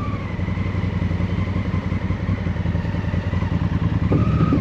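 Honda Africa Twin motorcycle's parallel-twin engine running steadily at low revs.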